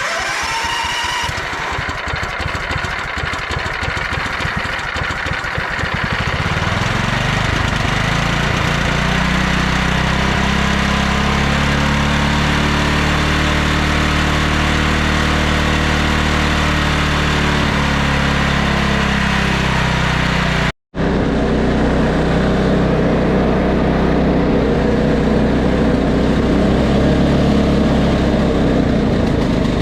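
An MTD RS180 lawn tractor's 18-horsepower Tecumseh engine running. It is uneven for the first few seconds, then steadies as its pitch rises about six seconds in, holds, and eases down shortly before a brief dropout about 21 seconds in. After the dropout it runs on steadily.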